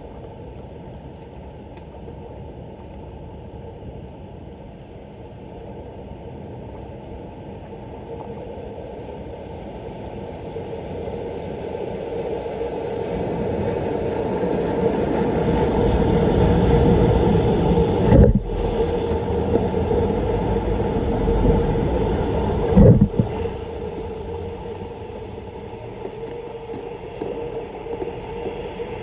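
Rushing, gurgling floodwater, swelling to a peak about halfway through and then easing. There are two sharp knocks, the first about two-thirds of the way in and the second a few seconds later.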